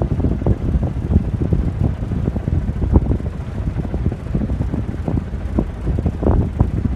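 Wind buffeting the microphone at sea: a gusty, fluttering low rumble with no steady tone.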